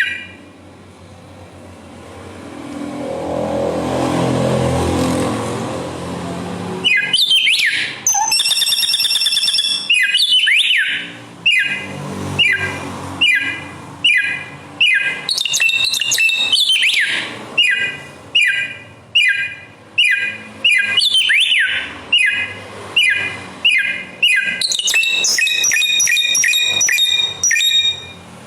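Bare-throated whistler (samyong) singing loud, clear whistled phrases with rising and falling sweeps, repeated about once a second. This begins about seven seconds in, after a low rumbling noise.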